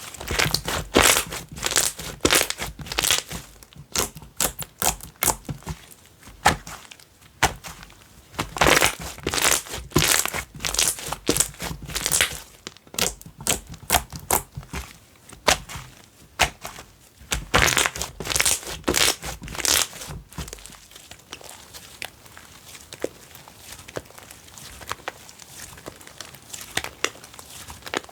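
Slime being squished, poked and stretched by hand, giving dense runs of crackling, popping clicks in bursts, fainter after about twenty seconds.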